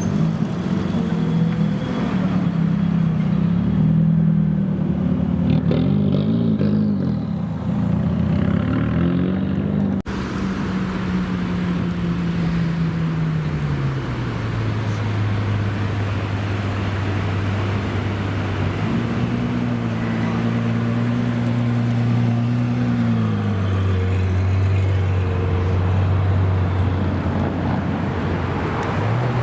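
Car engine idling and being revved, its pitch wavering up and down at first. After a sudden cut about a third of the way in, a steady idle settles lower, rises to higher revs held for a few seconds around two-thirds of the way through, then drops back to idle.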